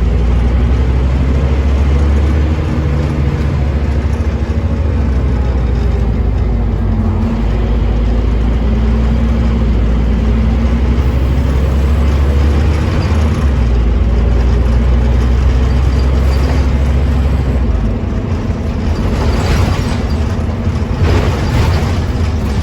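Scania OmniCity bus's diesel engine running under way, a strong low drone that steps in pitch as it pulls and eases off. From about eighteen seconds in the engine note drops away, and two short hisses follow near the end.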